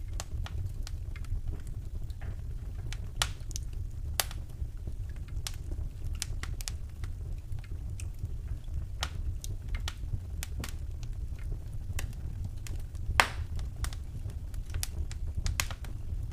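Wood fire in a fireplace crackling: irregular sharp pops and snaps over a steady low rumble, with the loudest pop about 13 seconds in.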